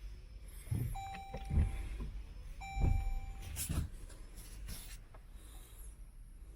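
Two steady electronic beeps, each about a second long, with several dull low thumps around them.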